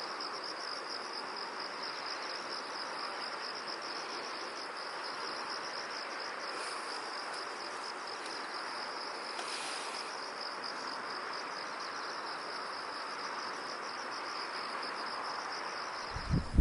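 Crickets chirping in a steady, fast-pulsing high trill over a soft background hiss. Near the end the chirping stops abruptly and a loud gusty rushing sound begins.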